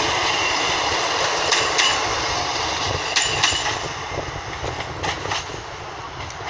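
A Class 153 single-car diesel railcar running into the platform, its wheels clicking over rail joints a few times. The rumble fades from about halfway through.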